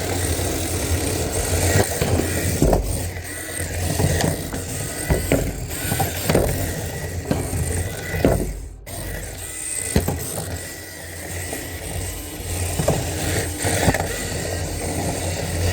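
Small electric motors of RC cars running, with a steady high whine and frequent short knocks and clicks. The sound drops out briefly about nine seconds in.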